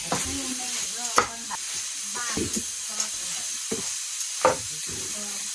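Food sizzling in a hot pan while it is stirred, with a spoon knocking against the pan now and then, loudest about a second in and again near the end.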